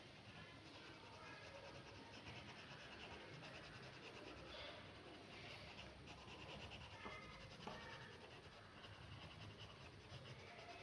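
Faint scratching of a pen drawing strokes on paper.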